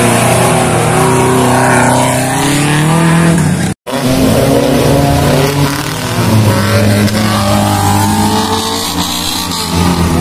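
Off-road 4x4 engine revving, its pitch rising and falling, with the sound cutting out for a split second a little under four seconds in before the revving carries on.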